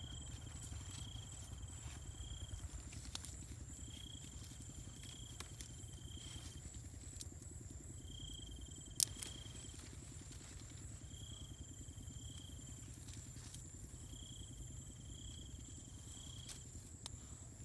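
Jungle insect chorus: a steady high-pitched drone with repeated runs of chirping about every three and a half seconds, over a low rumble. A single sharp click about nine seconds in.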